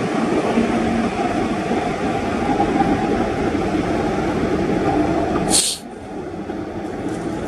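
Commuter train running, a steady rumble. About five and a half seconds in there is a brief, sharp high hiss, and after it the sound is suddenly quieter.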